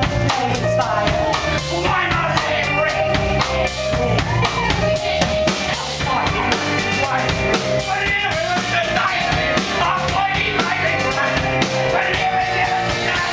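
Live band music with a drum kit keeping a steady beat, and voices singing over it.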